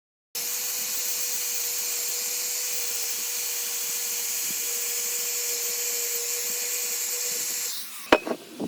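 An electric power tool's motor runs steadily with a constant hum and a high whine, then stops near the end, followed by a couple of sharp clicks.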